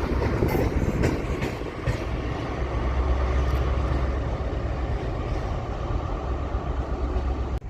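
Train moving along the rails: a steady low rumble with a few sharp wheel clicks in the first couple of seconds, cutting off abruptly just before the end.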